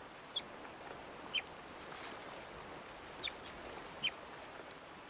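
Young river otter giving four short, high-pitched chirping calls, spaced a second or two apart, over the steady rush of river water.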